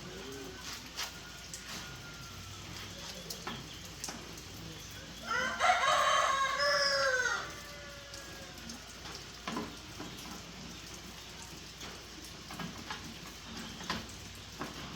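A rooster crows once, a single call of about two seconds near the middle, over a faint steady hiss with scattered small clicks.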